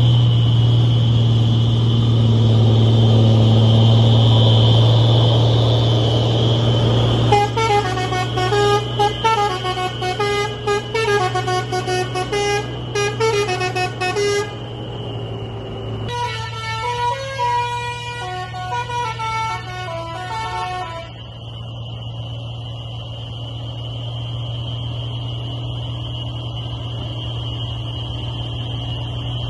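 An old truck's engine running steadily, with a multi-tone musical horn playing a short tune over it about seven seconds in and another tune about sixteen seconds in.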